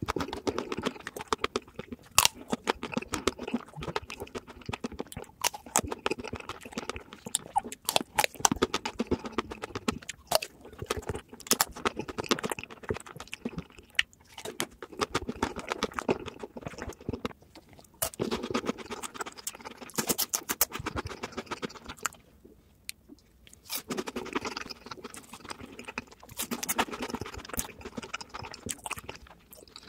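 Close-up biting and chewing of a chocolate-coated ice cream bar, the chocolate shell crackling and crunching between wet mouth sounds, with a brief lull about three-quarters of the way through.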